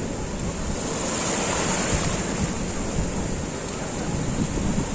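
Surf breaking and washing on a sandy beach, a steady rushing that swells slightly about a second in, with low wind rumble on the microphone.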